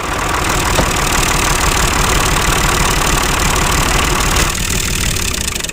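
A small motor running steadily with a fast, even pulsing rattle. Its higher hiss drops away a little over four seconds in.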